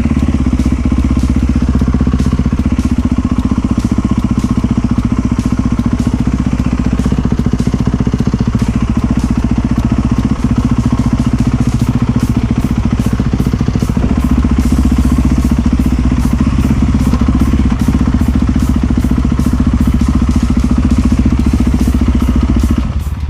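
Enduro dirt bike engine running at fairly steady revs, with no big rises or drops in pitch.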